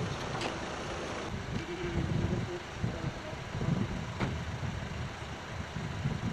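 A car engine running, mixed with a low gusting rumble of wind on the microphone and a couple of faint clicks.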